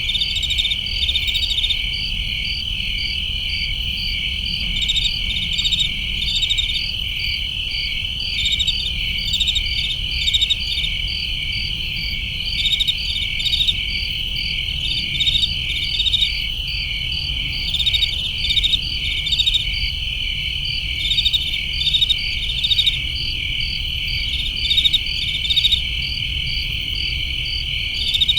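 Night chorus of crickets: a steady high trill, with a rhythmic chirping coming and going in clusters every few seconds, over a low rumble.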